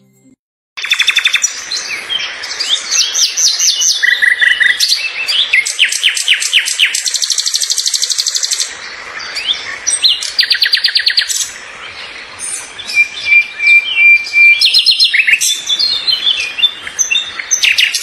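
Songbirds chirping and singing in fast trills, with a held high whistled note near the end. It begins after a brief silence.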